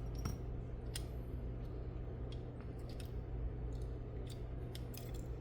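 Scattered light clicks and taps from the small metal and plastic parts of a Hot Wheels diecast truck being pulled apart and handled, over a steady low hum.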